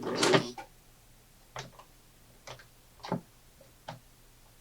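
1968 Singer Model 628 Touch & Sew sewing machine working slowly through very thick denim, one stitch at a time. A louder clunk comes right at the start, then single needle-stroke clicks about once a second over a faint motor hum.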